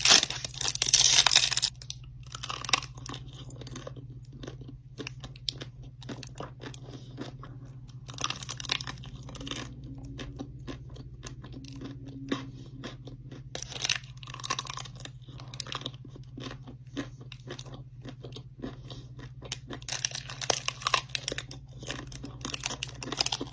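Close-miked chewing and crunching of a Twix ice cream bar: a loud crunchy bite in the first second or two, then bursts of crunchy chewing on and off, over a steady low hum.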